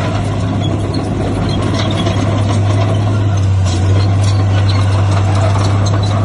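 Heavy diesel engine of earthmoving machinery running steadily, with a deep constant hum and light clatter over it.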